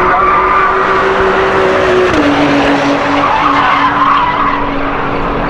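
A car engine running hard at steady revs, its note stepping down in pitch about two seconds in and then holding, with tyre noise under it.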